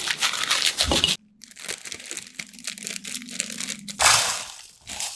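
Packaging being unwrapped: dense crinkling and crackling that cuts off suddenly about a second in, then lighter, sparser crackles, and a loud tearing rip about four seconds in.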